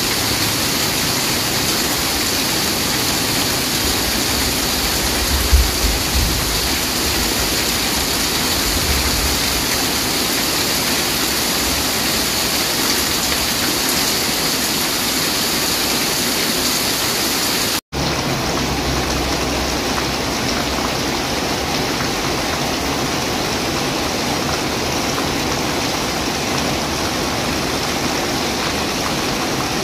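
Steady rain falling, a dense even hiss of drops on leaves and roofs. A short low rumble comes about five seconds in; the sound drops out for an instant a little past halfway, then the rain goes on with less hiss.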